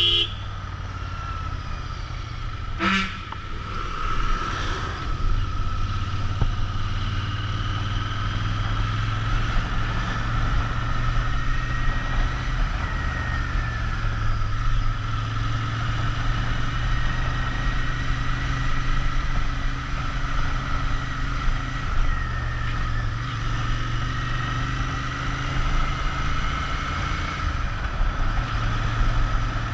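Royal Enfield Interceptor 650's parallel-twin engine running steadily as the motorcycle is ridden, its pitch drifting slightly with throttle. There is a brief sharp sound about three seconds in.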